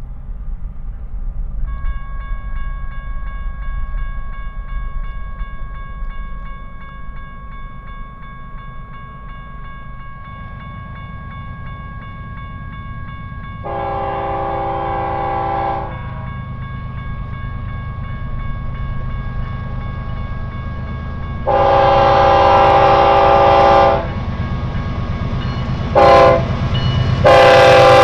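Freight train's diesel locomotives rumbling as they approach, the locomotive horn sounding the grade-crossing signal: two long blasts, a short one, then a final long blast near the end. The horn is a chord of several notes and is the loudest sound.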